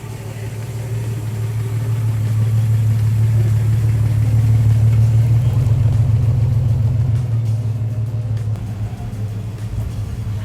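A car engine's low rumble, growing louder over the first few seconds and easing off again toward the end, as of a car driving slowly past.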